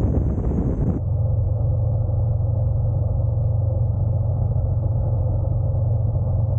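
Honda NC750X DCT's parallel-twin engine running steadily, heard with riding noise as a low, even rumble. About a second in the higher hiss drops away, leaving a steadier hum.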